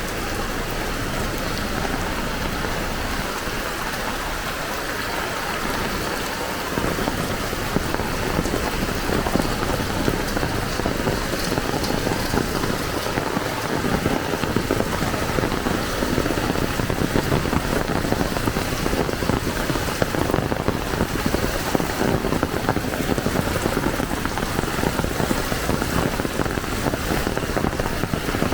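Heavy rain falling, a steady hiss. About seven seconds in it gets louder, with a denser patter of drops.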